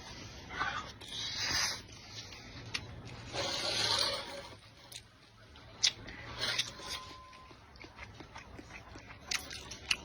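Close-miked eating: mouth sounds in a few noisy bursts, the longest about halfway through, with several sharp clicks of tableware in between.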